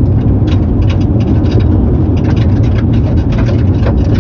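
Moving vehicle heard from inside the cabin: a steady, loud low rumble of road and engine noise, with frequent irregular sharp taps over it.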